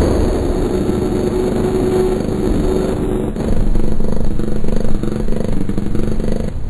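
Droning noise-music soundtrack: a dense, steady low rumble with a few held tones over it, close to the sound of an engine.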